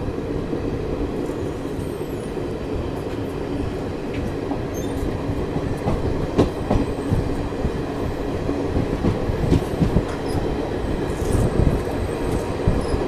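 Express train coach heard from its open doorway as the train accelerates out of a station: a steady rumble of wheels on rail, with knocks over the rail joints coming in from about halfway through and growing louder.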